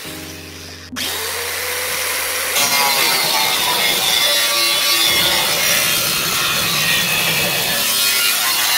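A power tool cutting, a continuous grating noise.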